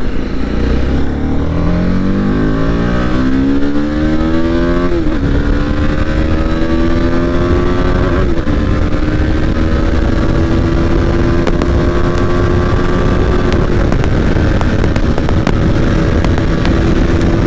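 Motorcycle engine pulling hard from the rider's seat: the revs climb for about five seconds, drop at a gear change, then hold at a steadier, slowly rising pitch while cruising, with brief dips at later shifts. Low wind rumble runs underneath.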